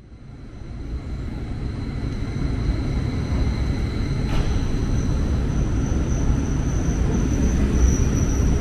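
SBB double-deck electric train running into the station along the platform: a rumble of wheels on the rails that grows over the first few seconds and then holds, with a steady high-pitched whine above it.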